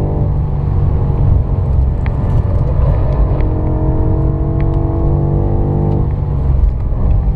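BMW M5 F90's twin-turbo V8 pulling hard at high speed, heard from inside the cabin over heavy road and tyre rumble, its note slowly rising. About six seconds in, the engine note falls away as the driver comes off the throttle.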